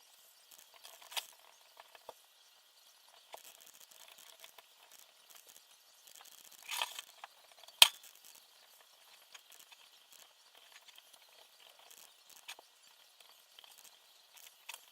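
Small parts and tools being handled during assembly: scattered light clicks and clinks, a brief rustle just past the middle, then one sharp click, the loudest sound.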